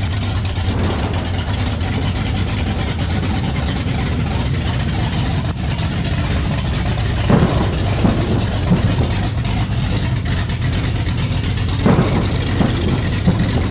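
A car engine running steadily at idle, with a couple of brief louder surges about seven and twelve seconds in.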